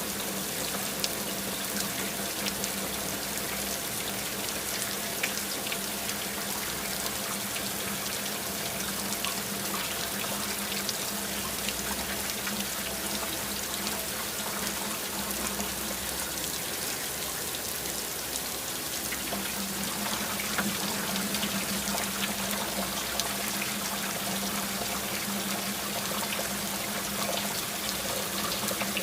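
Water running steadily from a tap, a continuous splashing rush with a faint low hum beneath it.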